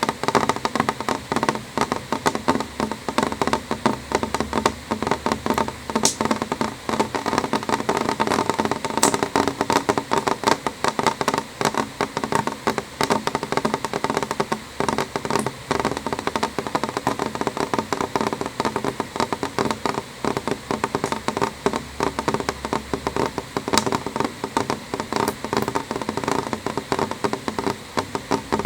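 Rain falling on window glass: a steady, dense patter of many small drops striking the pane, with a few sharper single ticks.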